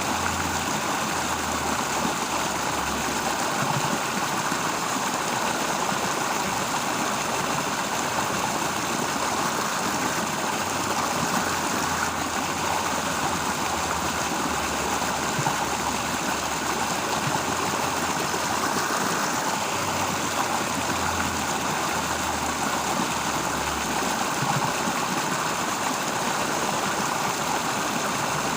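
Steady rushing of flowing water, with a low hum that fades in and out several times.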